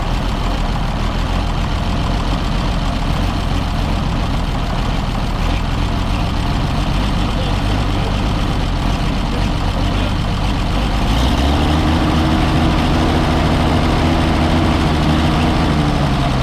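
Oliver 77 tractor's six-cylinder engine running at low idle, a little rough. About eleven seconds in it picks up and runs a bit louder with a steadier hum.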